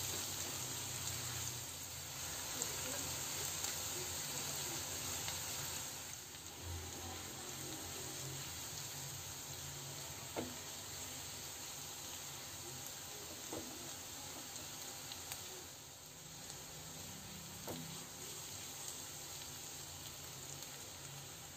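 Diced potatoes sizzling in oil in a non-stick wok as they are stir-fried with a spatula, a steady soft hiss. A few light knocks of the spatula against the pan stand out from the frying.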